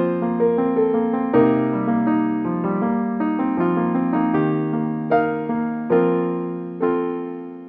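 Background music: an electric piano playing a slow melody of single notes and chords, each note struck and then fading.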